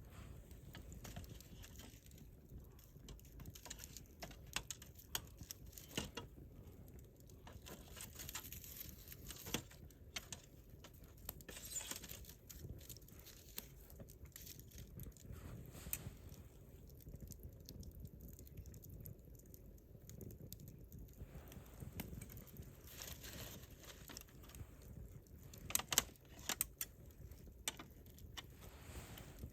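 Wood fire crackling faintly: scattered snaps and pops from the burning wood, with two louder pops about three seconds before the end.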